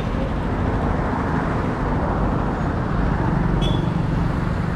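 Road traffic passing on a busy road: a steady mix of engine rumble and tyre noise.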